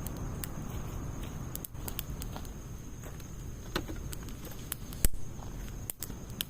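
Wood fire of logs and pine needles crackling in a Snow Peak fire pit: scattered sharp pops, the loudest about five seconds in, over a steady low rush.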